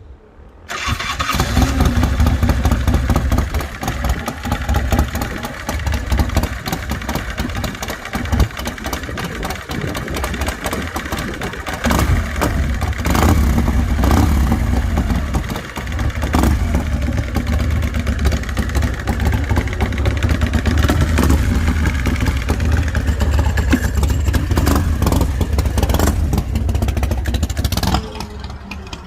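Bourget custom motorcycle's V-twin engine running loud with a deep low rumble and varying revs. It comes in suddenly about a second in, grows louder about halfway through, and cuts off abruptly near the end.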